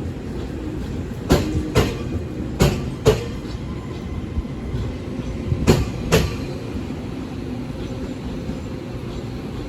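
Taiwan Railways train rolling past, its wheels clacking over a rail joint in three double clacks, each pair about half a second apart, over a steady rumble that goes on after the last pair.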